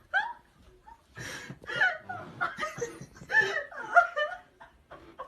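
A person laughing in several short peals.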